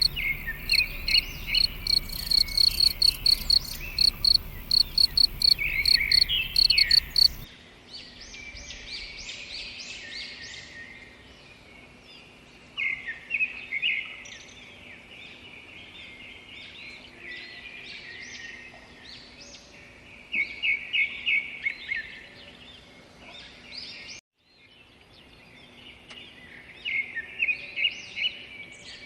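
Forest ambience of birds and insects. At first an insect chirps in fast, regular pulses under trilling birdsong. After an abrupt change about a quarter of the way in, only birds remain, giving short bursts of rapid repeated notes every several seconds.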